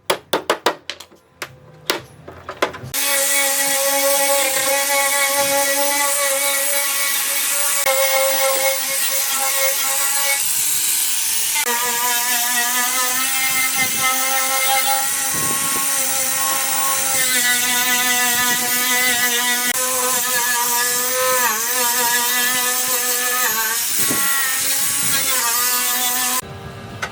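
A few taps and knocks, then about three seconds in an electric power tool starts and runs loudly and steadily. Its pitch shifts and wavers as the load changes, and it stops shortly before the end.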